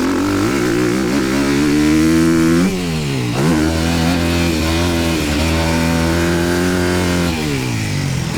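Honda motocross bike's engine under throttle: the pitch climbs for about two and a half seconds, drops sharply, climbs again and holds, then falls away near the end as the rider rolls off the throttle.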